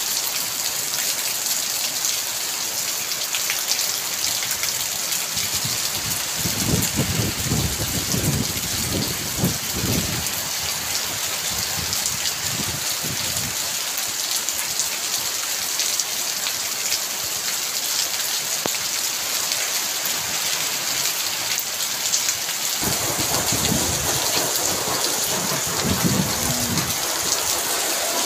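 Heavy rain falling hard and steadily, a dense hiss. Twice, from about six to thirteen seconds in and again from about twenty-three seconds in, a low rumbling runs under it.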